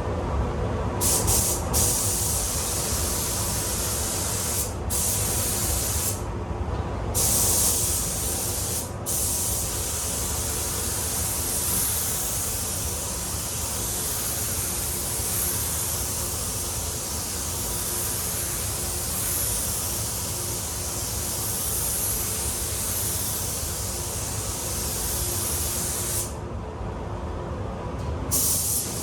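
Air-fed paint spray gun hissing at about 1.5 bar as it lays down a base coat, the hiss stopping briefly between passes and for about two seconds near the end.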